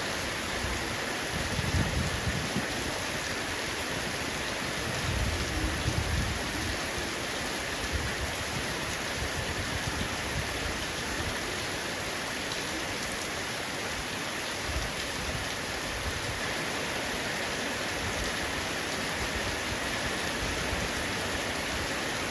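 Heavy rain falling on a roof, a steady dense hiss of drops, with a few low rumbles swelling and fading underneath, about two seconds in, around five to seven seconds in, and near the end.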